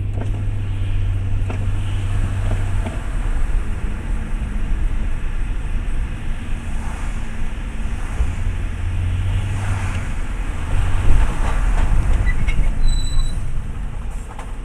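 A car driving: a steady low drone of engine and tyre noise from inside the cabin, growing louder for a few seconds about ten seconds in.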